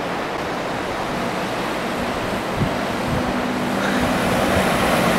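SUV engine pulling up a steep off-road climb, a low steady hum under a rushing noise that grows a little louder over the last couple of seconds.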